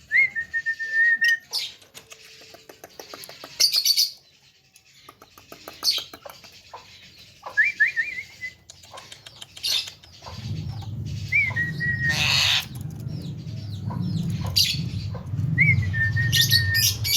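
Javan myna calling: four whistles that jump up and then hold one steady note, with short clicks and harsh chattering notes between them. From about ten seconds in, a low steady hum runs underneath.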